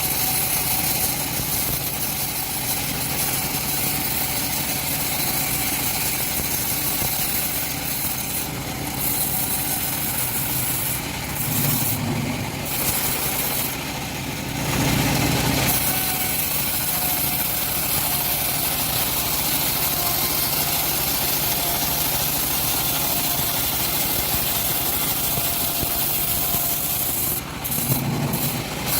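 Homemade engine-driven bandsaw mill running steadily while sawing through a teak log, with brief surges in the noise a few times.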